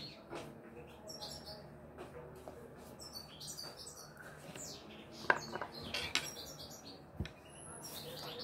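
Faint birds chirping in scattered short, high calls, some sliding quickly in pitch, over a quiet room, with a soft low thump about seven seconds in.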